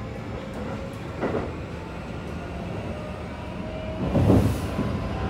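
Keikyu 1000 series train heard from inside the car: its Mitsubishi full-SiC VVVF inverter and traction motors whine, rising steadily in pitch as the train gathers speed. Under the whine is the rumble of wheels on rail, with a short surge about a second in and a louder rush about four seconds in.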